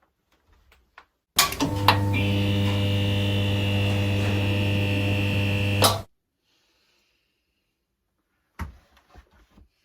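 Steady electrical hum from a mains-powered appliance, switched on with clicks about a second in, running evenly for about four and a half seconds, then cut off with a click. A sharp knock follows near the end.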